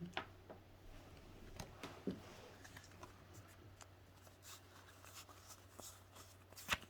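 Faint rustling and light taps of Pokemon trading cards being handled, with a couple of sharper clicks near the end.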